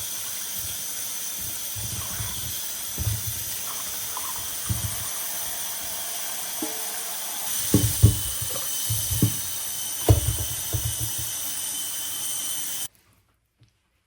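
Water running from a kitchen tap into a sink, a steady rush that cuts off suddenly near the end, with scattered knocks and clunks of things being handled in the sink.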